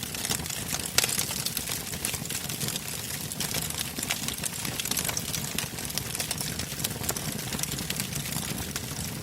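Bonfire crackling, with many sharp irregular pops and snaps over a steady low rush of burning; the loudest pop comes about a second in.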